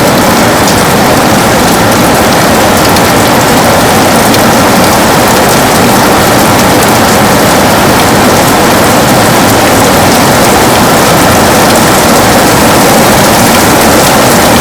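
Heavy rain falling steadily on a window, a continuous even hiss and patter.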